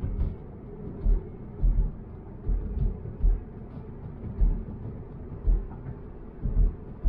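Low road rumble inside a moving car, with irregular deep thumps every half second to a second.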